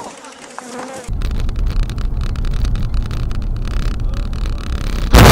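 A steady low rumble, then a sudden loud crash near the end, as a window is broken.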